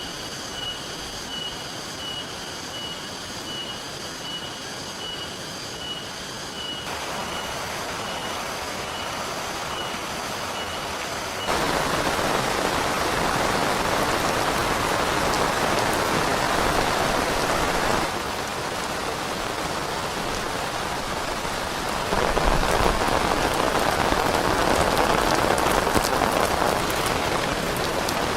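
Steady rain falling, its hiss jumping louder and softer in abrupt steps several times. For roughly the first eleven seconds a high, evenly pulsing tone runs over the rain, then stops abruptly.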